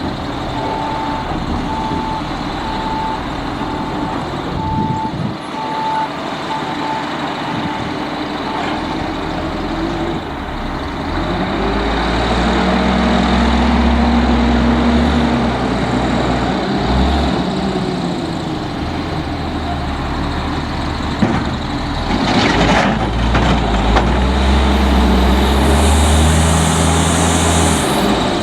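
Autocar front-load garbage truck backing up with its reverse alarm beeping steadily for the first several seconds, then its diesel engine revving up and down repeatedly, as it does when powering the hydraulic lift arms. A short sharp burst of noise comes about two-thirds of the way through, and a hiss near the end.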